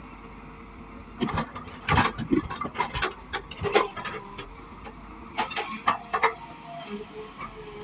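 Excavator at work: irregular clanks and knocks in short clusters over a steady low engine hum, the sounds of the bucket and machinery as it digs.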